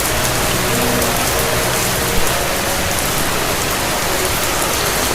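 Steady heavy rain falling, a dense even hiss with no breaks.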